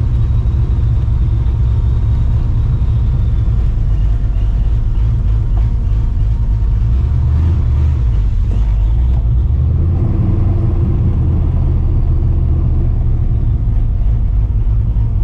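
Straight-piped, supercharged 5.4-litre V8 of a 1999 Mustang GT running at low speed, a steady deep exhaust note that shifts slightly in the middle as the throttle changes.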